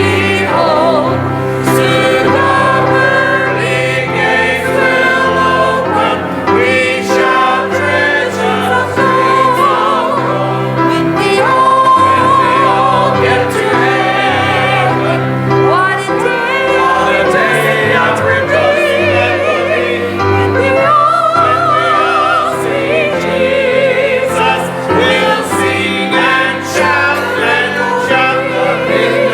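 Gospel singing with instrumental accompaniment: voices holding long wavering notes over a steady bass line, with no break.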